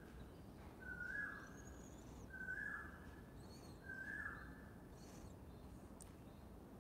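A bird calling faintly: a short, clear note repeated three times, about every second and a half, each dipping at its end, with fainter high chirps from other birds.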